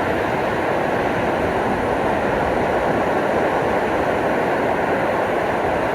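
Ocean surf washing onto a beach, a steady rushing noise with no breaks.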